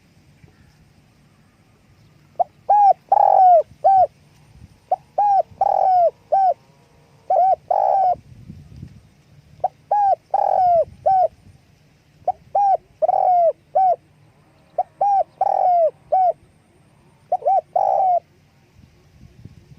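Spotted dove cooing: about seven short phrases, each a run of three or so hooting coos, repeated roughly every two and a half seconds, starting a couple of seconds in.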